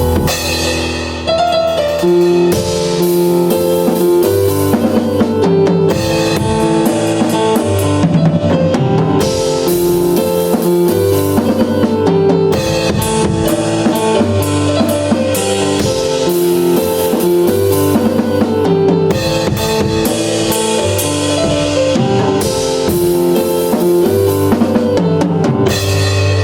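Piano and drum kit playing together: chords and melody on the piano over a steady drum-kit groove with bass drum and snare hits.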